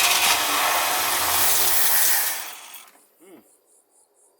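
1969 Ford F-250's starter cranking the engine, which does not catch, on a freshly rebuilt Autolite 2100 carburetor. The cranking stops about two and a half seconds in and fades out, leaving crickets chirping.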